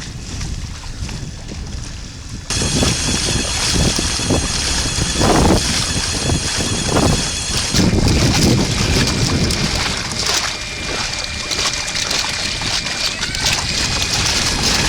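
Wind buffeting the microphone over water splashing and sloshing around a kayak. The sound gets suddenly louder about two and a half seconds in.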